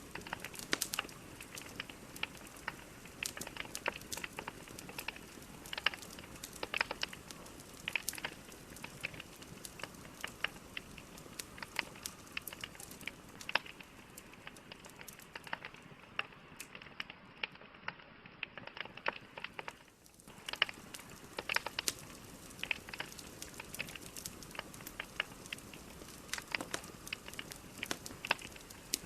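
Wood fire burning: logs crackling and popping in irregular sharp snaps over a steady hiss, briefly dropping away about two-thirds of the way through.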